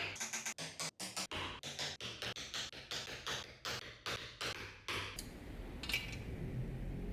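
Rapid series of short, sharp hand-tool strokes on a workpiece, about four a second, giving way about five seconds in to a steady rushing noise with a low rumble.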